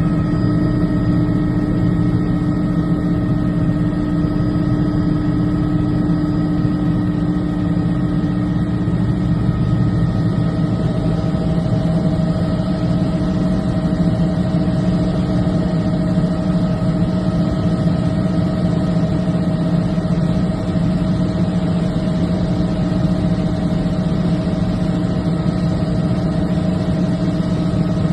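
A vehicle engine idling steadily, a constant hum with a held pitch.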